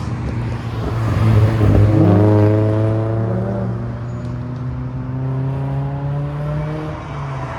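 A car's engine revs and accelerates past, loudest about two seconds in, then its note holds and slowly falls away as it leaves. A steady engine hum runs underneath.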